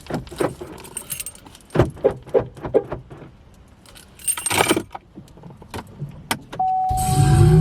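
Jingling metal and light clicks, then near the end a steady electronic tone comes on together with a loud low rumble.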